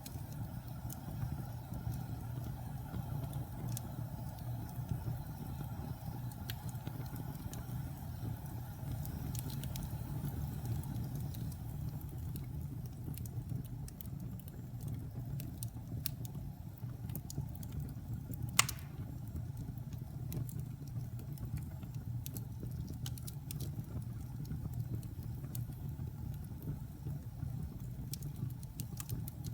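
Wood fire crackling in a fireplace: a steady low rumble with scattered small crackles, and one sharp pop about two-thirds of the way through.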